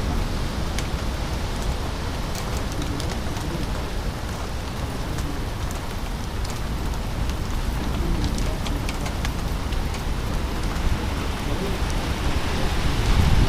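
Strong storm wind ahead of a severe thunderstorm line, blowing on the microphone as a steady rumbling noise, with scattered sharp ticks through the middle.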